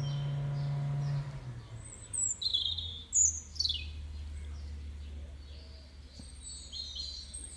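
Garden birds chirping: a run of short, sharp, high calls, several sliding downward in pitch, the loudest about two and three seconds in. Underneath runs a steady low hum that drops lower about a second in.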